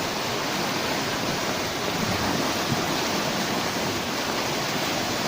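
Steady rushing water from heavy rain, an even hiss with no separate drops or pauses.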